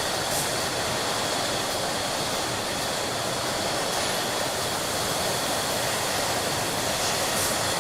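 Glass bottle factory production line running: a steady machine noise with a thin high whine, and a faint tick about half a second in.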